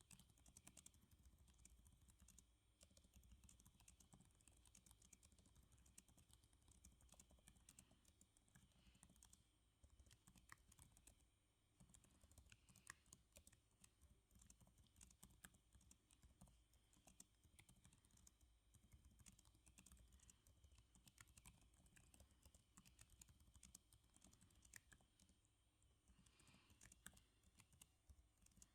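Faint, steady computer keyboard typing: irregular rapid key clicks with a brief lull about twelve seconds in.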